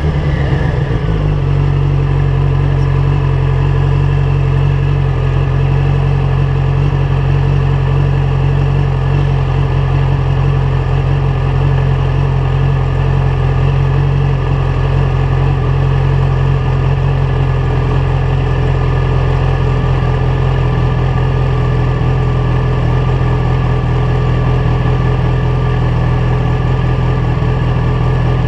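Yamaha FZ1's inline-four engine, fitted with a LeoVince GP-style exhaust, coming down in revs as the bike rolls to a stop. From about a second in it idles steadily.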